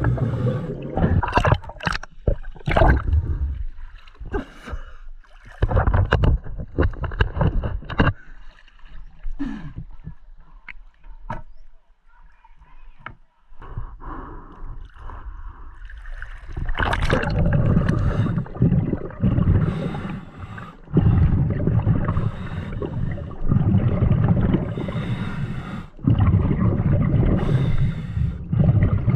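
A scuba diver breathing underwater through a regulator: irregular inhalations and gurgling exhaust bubbles, denser and steadier in the second half.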